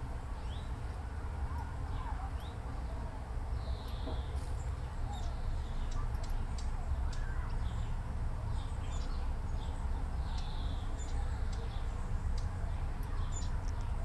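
Small songbirds giving scattered short high chirps and many sharp ticking calls over a steady low rumble.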